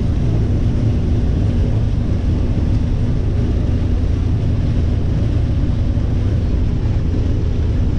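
Combine harvester running steadily while harvesting corn: a loud, even, low rumble.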